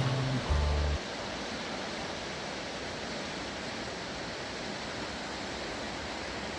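Steady, even rushing of fast, rain-swollen water in a gorge, taking over once a stretch of background music cuts off about a second in.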